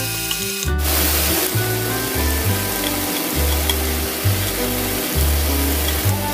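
Seasoned dried pollock skins sizzling in a hot frying pan as they are stir-fried, under background music.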